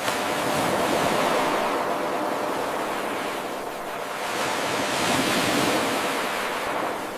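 Ocean surf washing in, a steady rush of water that swells twice and eases between. Right at the start the level jumps abruptly where the eight-second wave loop restarts.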